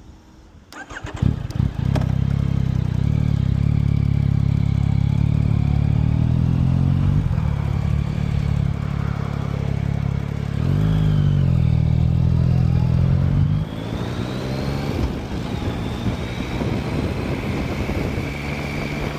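Yamaha FZ-09's inline-three engine starting about a second in, then running steadily. Its pitch dips and rises about halfway through, and after about 14 s it drops to a lower, rougher sound as the bike moves off.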